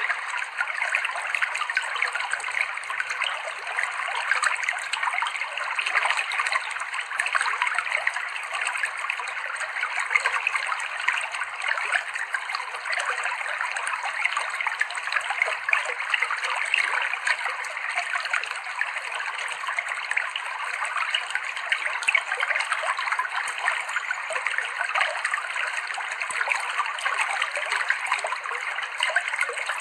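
Clear river water flowing and splashing over rocks, a steady babbling of many small splashes.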